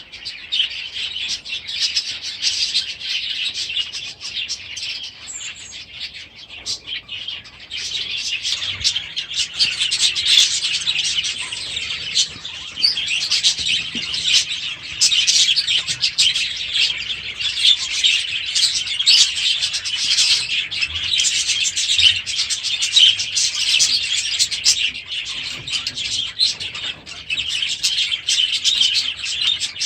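A flock of small aviary birds chirping and chattering at once, a dense, overlapping chorus of short calls that grows busier about eight seconds in.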